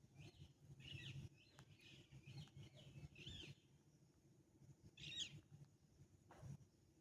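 Faint, short, high animal chirps, a quick run of them in the first three and a half seconds and one more about five seconds in.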